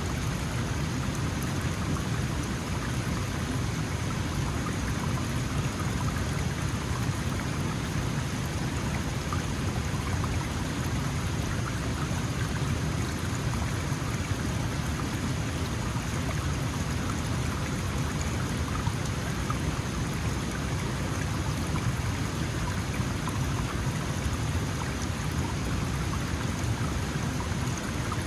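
Small mountain stream flowing steadily over rocks, a constant rushing and babbling of water.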